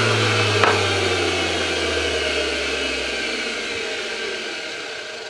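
High-speed electric motor of a CMP 230 concrete vibrator winding down after a test run, its hum falling steadily in pitch and fading away. There is a single click about half a second in.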